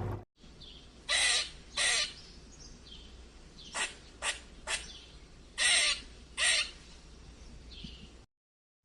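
Owl giving a series of short, harsh, raspy screeches, seven in all. Two come about a second in, three brief ones follow in quick succession mid-way, and two more come later.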